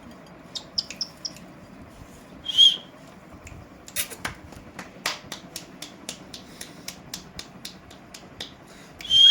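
Indian ringneck parrots giving a few short high chirps and a brief whistled note. After that comes a run of sharp clicking taps, about four a second, and another whistle near the end.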